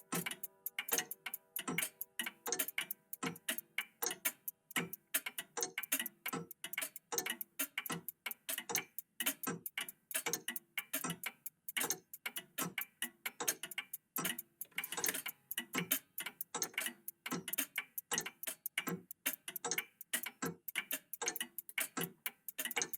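Old mechanical clocks, a cuckoo clock among them, ticking together in a fast, uneven, overlapping stream of ticks. A ringing chime fades away in the first second or two.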